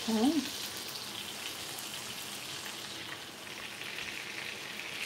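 Salmon fillets frying in a pan of bubbling butter sauce: a steady sizzle.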